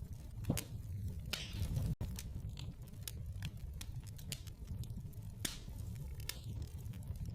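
Wood fire crackling in a fireplace: irregular sharp pops and snaps over a low, steady rumble, with a brief drop-out about two seconds in.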